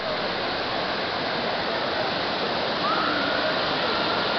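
Waterfall: water pouring and crashing steadily. A faint drawn-out high call sounds about three seconds in.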